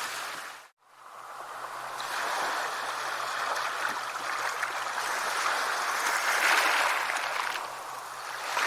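Sea waves washing onto a shore: an even hiss of surf that swells and eases. It cuts out to silence for a moment under a second in, then fades back up.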